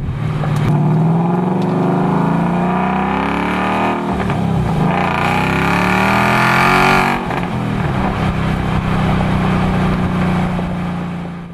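Ford Mustang GT's 5.0-litre Coyote V8 through an H-pipe cat-back performance exhaust, accelerating hard with the note rising. There is a gear change about four seconds in, and the pitch climbs again. About seven seconds in the throttle lifts off, and the note drops to a lower, uneven burble on deceleration.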